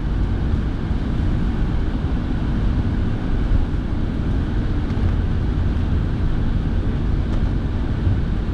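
Steady cabin noise of a car driving on wet roads: tyre and engine rumble mixed with the car's heater fan blowing.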